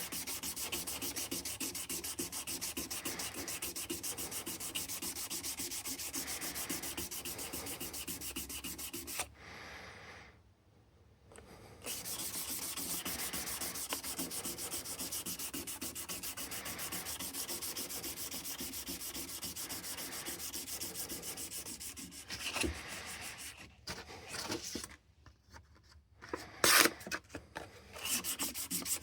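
Frets of a Martin D16 acoustic guitar being abraded in rapid back-and-forth rubbing strokes during fret dressing. The rubbing breaks off about nine seconds in and resumes about three seconds later. Near the end it turns irregular, with a few sharp knocks.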